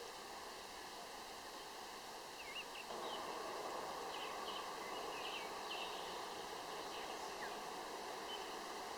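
Countryside ambience: a steady background hiss that grows louder about three seconds in, with small birds chirping briefly and faintly several times.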